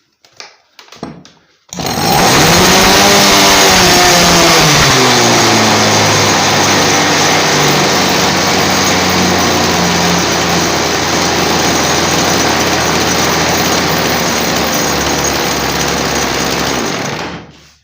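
Fieldmann petrol two-stroke chainsaw being pull-started. It catches a little under two seconds in, revs high and settles over a few seconds to a steady, loud fast run, then cuts off sharply near the end. It runs above idle because a broken throttle return spring leaves the throttle stuck slightly open.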